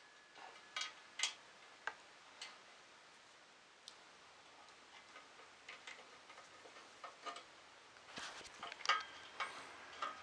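Small parts and screws of a 3D printer frame being handled and fitted: irregular light clicks and taps, busiest near the end.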